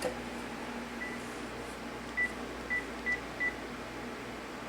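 Cordless phone keypad beeping as a menu code is keyed in: five short, high beeps, the first faint about a second in and four more in quick succession between about two and three and a half seconds in.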